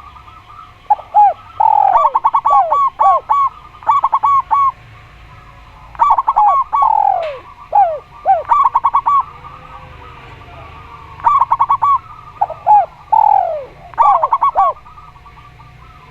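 Spotted dove and zebra dove cooing in three bursts, each a run of quick, short, clipped notes mixed with longer coos that fall in pitch, with pauses between the bursts.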